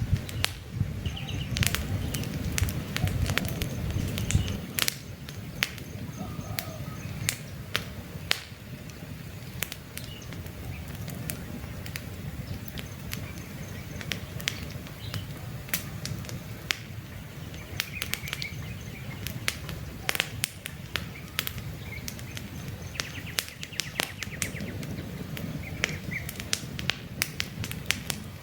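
Campfire crackling with many sharp pops and snaps over a low rumble of burning, the rumble stronger for the first few seconds. Faint bird chirps sound now and then behind the fire.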